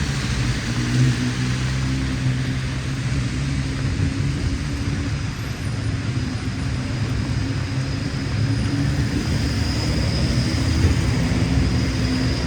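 Heavy rain falling steadily, with the low steady hum of a motor vehicle nearby.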